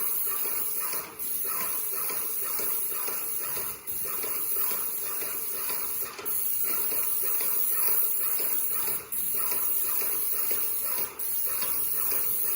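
Airless paint sprayer spraying paint: a steady hiss, broken by about five brief pauses.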